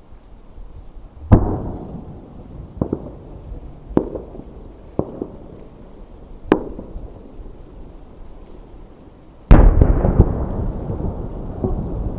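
Aerial firework shells bursting: five separate booms, each with an echoing tail, then about three-quarters of the way through a sudden loud barrage of many bursts that rumbles on without a break.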